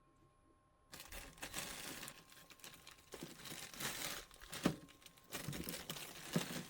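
Plastic packaging of frozen food crinkling and rustling as it is handled, with several sharp knocks in between. It starts abruptly about a second in.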